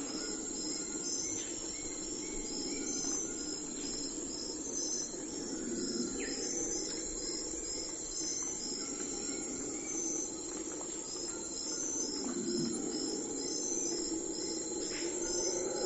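Crickets chirping in high, evenly repeating pulses over a low hum that slowly swells and fades.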